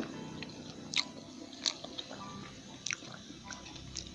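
A person chewing a mouthful of burger, with sharp wet mouth smacks about once a second.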